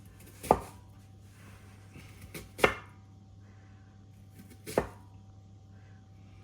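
A kitchen knife chopping through onion onto a cutting board: three separate, unhurried chops about two seconds apart.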